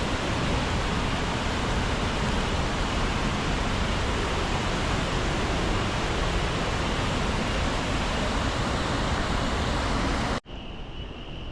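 Steady roar of the Iguazú Falls waterfalls at close range: a dense, even rush of falling water. It cuts off abruptly about ten seconds in and gives way to a quieter steady noise.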